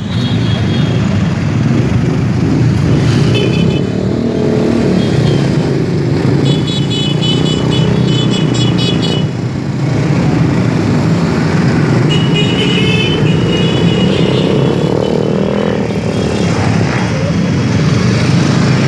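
A group of motorcycles riding past together, engines running steadily, with vehicle horns honking in several spells: about three seconds in, a long stretch of rapid repeated beeping a little later, and again near the middle and end.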